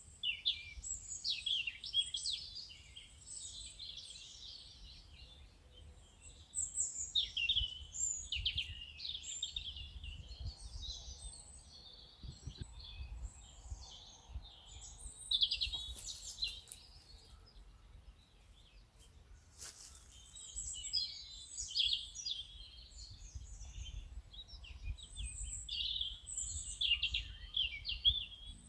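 Songbirds chirping and singing, several calls overlapping in quick runs that thin out twice and come back, over a low steady rumble.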